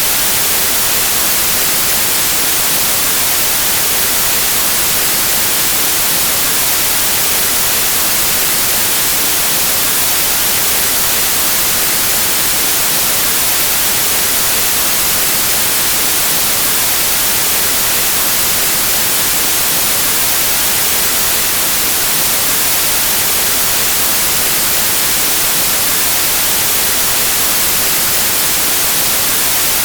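Steady white noise: an even, unchanging hiss that is brightest in the treble.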